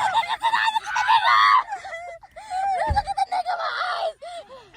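Several people screaming and shrieking in fright in short high-pitched cries, loudest about a second in, with a dull low thump about three seconds in.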